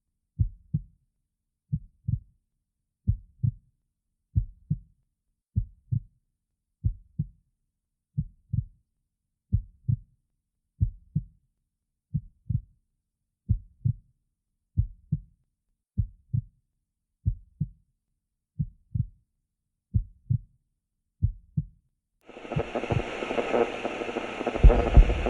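Slow heartbeat: paired low thumps, lub-dub, about every 1.3 seconds and very even. About 22 seconds in, the beats give way to a louder, steady rumbling noise with a hum.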